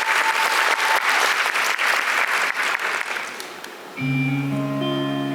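Audience applause dying away over about three seconds. About four seconds in, a guitar suddenly starts the song's intro with ringing chords.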